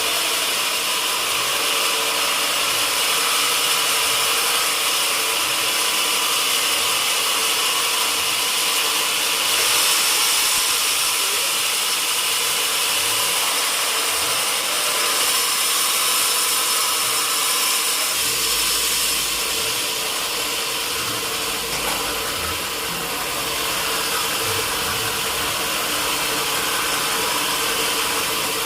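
Sawmill machinery running steadily, a constant hum under a loud high hiss, with a low rumble joining about two-thirds of the way in.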